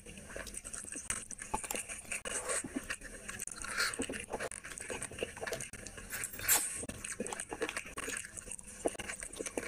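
Close-miked eating sounds of a person eating rice and curry by hand: chewing and wet smacking mouth noises in a run of short irregular clicks, the loudest about six and a half seconds in.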